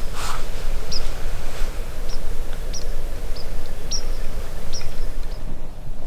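A small bird giving short, high chirps, about seven of them spaced roughly a second apart, over a steady low rumble of outdoor background noise.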